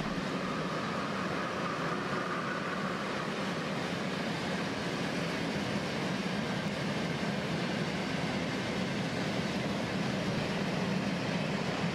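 A train rolling past on the track, a steady, unbroken noise of wheels on rails.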